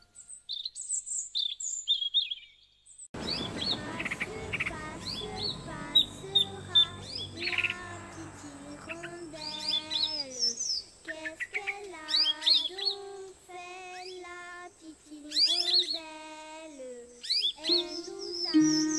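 Birds chirping with quick, high, falling calls, alone for about the first three seconds, then over soft background music carrying a slow stepping melody.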